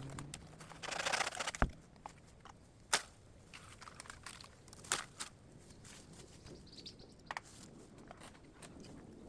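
A few sharp, separate snaps and cracks with brief rustling between them, like dry bamboo litter and twigs underfoot.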